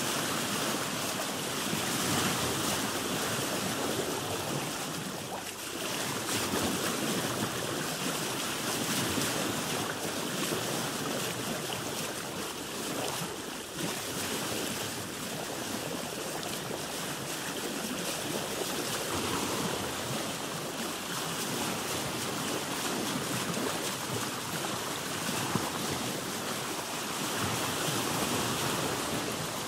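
Sea water lapping and splashing against a boat's hull, swelling and easing every few seconds, with wind on the microphone.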